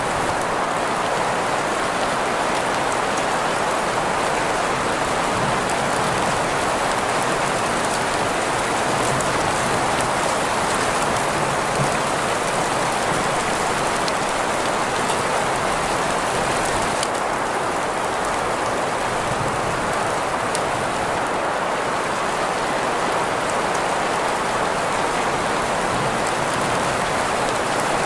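Steady rain sound blended with green noise: an even, unbroken hiss centred in the middle range, with faint drop ticks on top. The higher part of the hiss dims slightly about seventeen seconds in.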